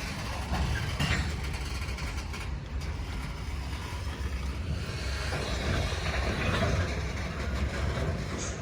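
Freight train cars rolling along the track, with a steady low rumble of wheels on rail and a few faint knocks.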